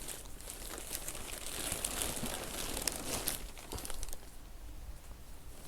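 Rustling and crinkling as a roll of fleece insulation is handled and unrolled, with small sharp crackles. It dies down to a fainter rustle about four seconds in.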